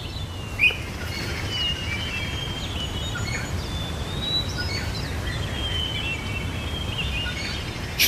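Several small birds chirping and whistling in short, overlapping calls, over a steady low background rumble.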